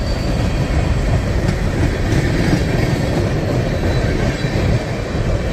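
Freight train cars, including covered hoppers, rolling past close by: a steady, loud rumble of steel wheels on the rails.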